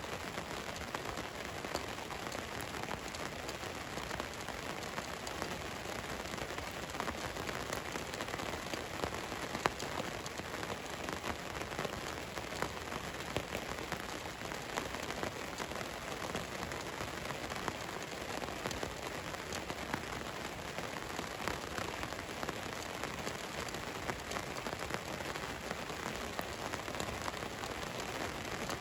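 Steady rain falling on a van, a dense pattering of drops with a sharper single drop tick about ten seconds in.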